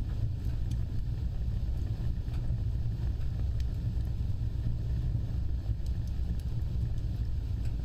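Wood fire burning with a steady low roar and scattered faint crackles.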